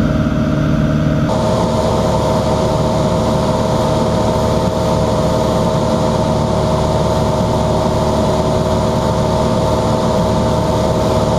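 Cessna 182's engine and propeller droning steadily in level cruise, with the mixture leaned. About a second in, the mix of tones in the drone shifts.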